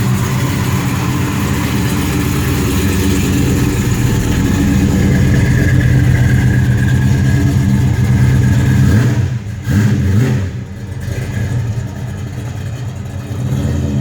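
1967 Chevelle SS's big-block V8 running soon after a cold start, held at a steady fast idle. About nine seconds in the revs drop suddenly, blip briefly, then settle to a lower idle.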